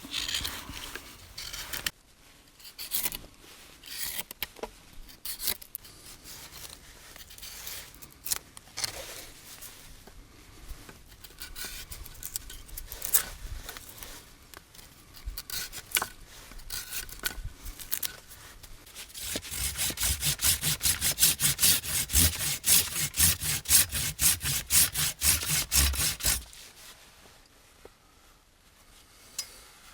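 Hand tool working wood: scattered scrapes and light clicks, then, after about twenty seconds, about seven seconds of rapid, rhythmic rasping strokes, about six a second, that stop abruptly.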